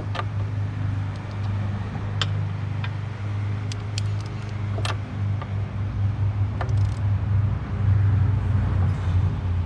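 Sharp metallic clicks and clinks of hand tools on the diesel's fuel-line fittings, scattered irregularly, over a steady low machine hum that is the loudest sound throughout.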